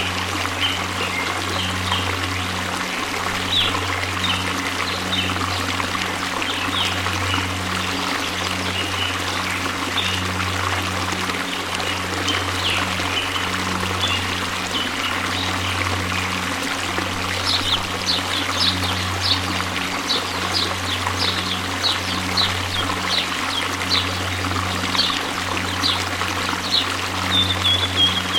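Rushing waterfall water: a steady, even rush with a low rumble beneath it. Short high chirps sound over it, scattered at first and coming quickly one after another in the second half.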